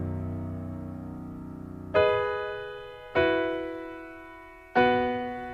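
Solo piano: a held chord fades away, then three chords are struck in slow succession, each left to ring and die down.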